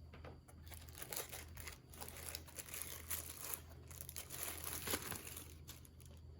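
Packaging crinkling and rustling as it is handled and unwrapped, in irregular crackles for about five seconds, loudest around five seconds in.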